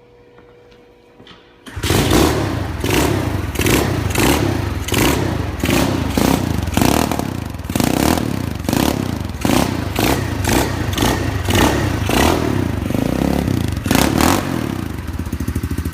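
SSR SR125 pit bike's 125cc single-cylinder four-stroke engine starting up with a few clicks, catching suddenly, then being blipped with the throttle over and over before settling to an even idle near the end.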